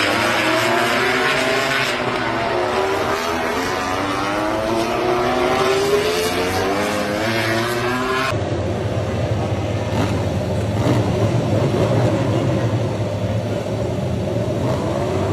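MotoGP racing motorcycle engine revving hard, its pitch climbing as it accelerates. After a sudden cut about eight seconds in, a lower, rougher engine note carries on.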